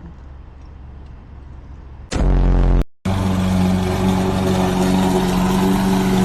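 Riding lawn mower engine running steadily: faint at first, then loud and close from about two seconds in, at an even pitch, with a brief cutout just before the three-second mark.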